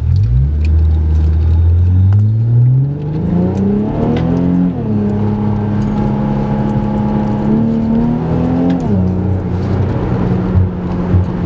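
Infiniti Q50 3.0t's twin-turbo V6 through a new Stillen exhaust, accelerating: its pitch climbs for about four seconds, then drops and holds steady while cruising. It rises slightly and falls again about nine seconds in.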